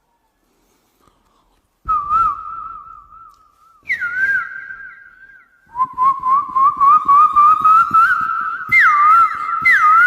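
A high, warbling whistle with a rapidly wavering pitch. After about two seconds of silence it comes in two short phrases at slightly different pitches, then becomes continuous from about six seconds in, with quick downward swoops near the end.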